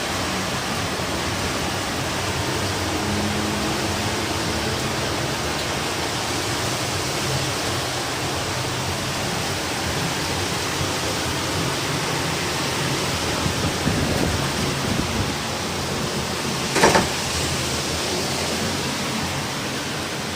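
Heavy rain and strong wind in a storm, a steady rushing noise with no let-up. A single sharp knock sounds about seventeen seconds in.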